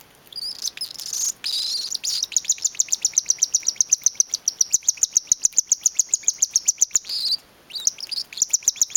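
Baby cockatiel's food-begging calls: a few squeaky cries, then a fast, even run of short high chirps, about six a second, that breaks off for about a second near the end and starts again.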